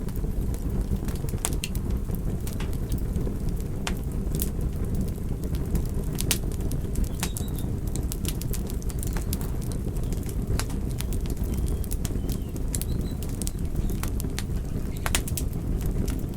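A fire crackling: a steady low rush of flame with sharp pops and snaps at irregular moments, about two a second.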